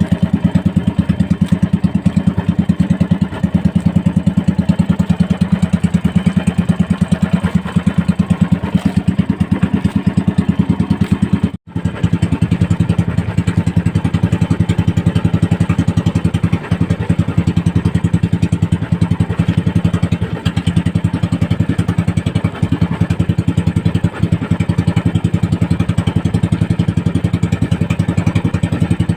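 Small boat engine, as on a motorized outrigger fishing boat, running steadily at a constant speed with an even, rapid firing beat. It breaks off for an instant near the middle.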